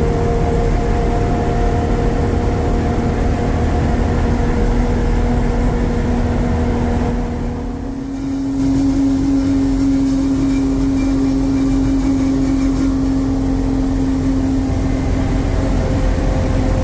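1948 Ford F5 bus driving on the road, its engine running steadily under a steady whine. The sound drops briefly a little before halfway, then picks up again.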